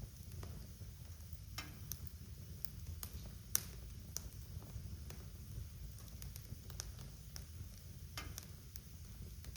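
Wood fire crackling in a fireplace: scattered sharp pops and snaps over a low steady rumble, with one louder pop about three and a half seconds in.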